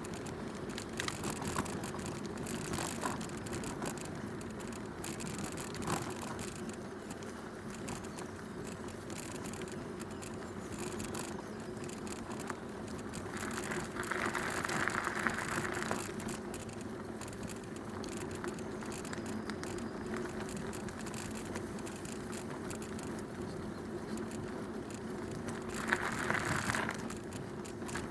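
Bicycle rolling steadily along a towpath: continuous tyre noise with small rattles and clicks, louder for a couple of seconds about halfway through and again briefly near the end.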